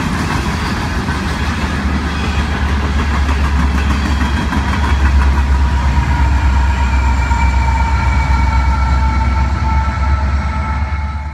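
Empty coal hopper cars rolling past on the rails, then the train's two rear distributed-power diesel locomotives, a GE ET44AC and an EMD SD70ACe, going by. About halfway through their deep engine rumble swells and a few steady high tones come in.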